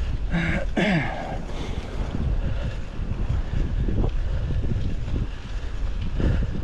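Wind buffeting the microphone during a mountain bike ride, a steady low rumble, with a short voice sound about half a second in.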